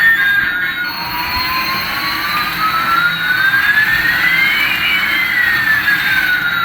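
Jet engine sound: a steady rushing hiss with a whine that climbs in pitch while a second whine falls, the two crossing near the end.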